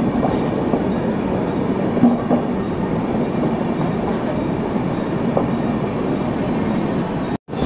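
Indian Railways LHB passenger coaches rolling past on the next track, a steady rumble of steel wheels on rails with a faint clickety-clack. The sound cuts out briefly near the end.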